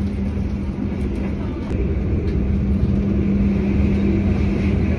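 Steady rumble of a moving passenger train heard from inside the carriage, with a constant low hum.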